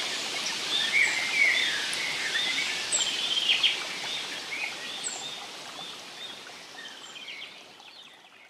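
Forest soundscape of many small birds chirping and calling over a steady background hiss, the whole fading out over the last few seconds.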